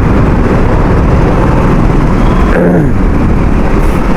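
KTM RC 200 single-cylinder motorcycle running under the rider, a steady loud rumble close to the mic, with a short falling tone about two and a half seconds in.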